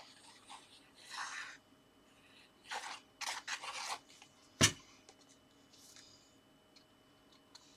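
Paper being rubbed and smoothed down onto card by hand in several short scratchy strokes, with one sharp tap a little past halfway.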